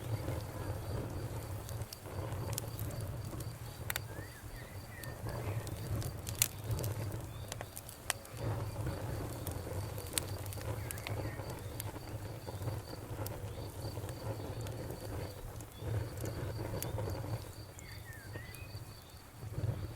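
Wood fire burning in a fireplace: a low, steady rumble of flames with scattered sharp crackles and pops. Behind it, a cricket chirps in a steady, even rhythm.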